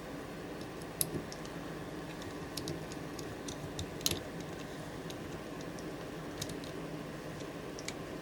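Sparse light clicks and taps of small hard parts being handled, the strongest about a second in and about four seconds in, over a steady low hum.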